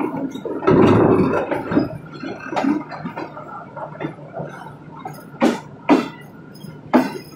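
Passenger train running slowly over the track, its wheels knocking sharply and irregularly over rail joints and points above a steady low hum, with a louder rush of noise about a second in.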